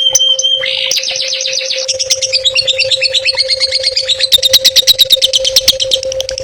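A songbird singing a fast, varied, chattering song, breaking into a run of rapid repeated notes, about eight a second, in the second half. A steady hum runs underneath.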